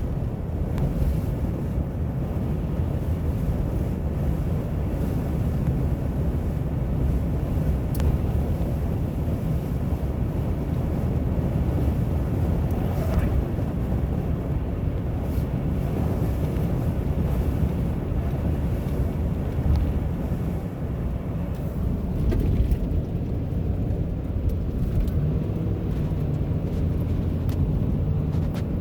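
A vehicle driving: a steady low rumble of engine and tyres on the road, with wind noise over it.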